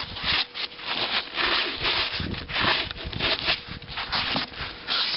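Repeated, irregular crunching and scraping in snow, about two or three strokes a second.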